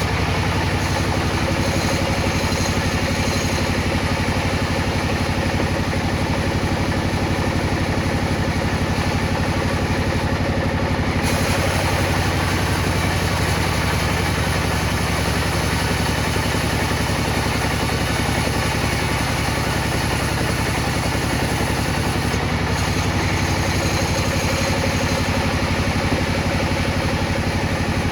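A motor running steadily with a rapid low pulsing hum; a higher hiss grows brighter about eleven seconds in.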